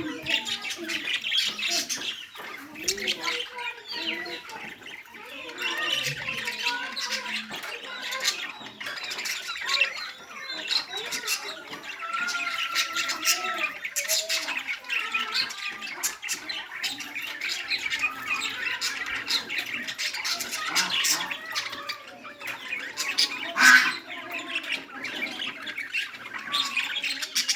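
Bird squawking and chattering continuously in short, varied calls, with one louder squawk late on.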